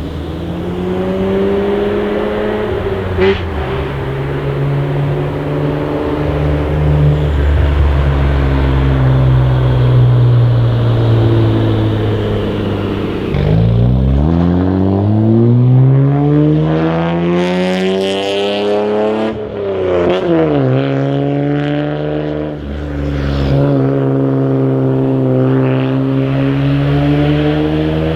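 Toyota JZX90 Mark II's 1JZ-GTE twin-turbo straight-six running through a modified exhaust, its note rising and falling at moderate revs. About halfway through it accelerates hard, the pitch climbing for several seconds. It then drops sharply and settles into a steady run.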